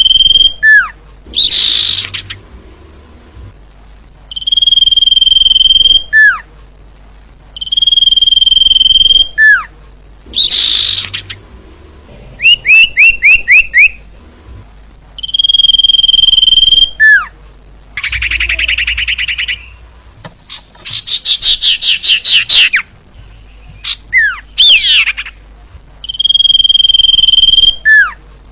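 Common iora (cipoh) singing: long, loud, steady whistles that each end in a quick downward slur, repeated about every four seconds, with rapid trills and chattering notes in between.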